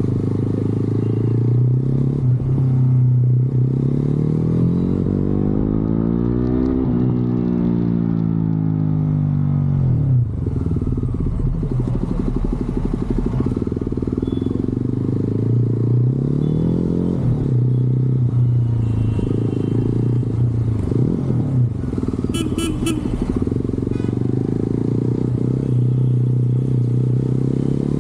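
Motorcycle engine running under way, its pitch climbing and then dropping several times with throttle and gear changes. A brief high-pitched chirping sound comes in about two-thirds of the way through.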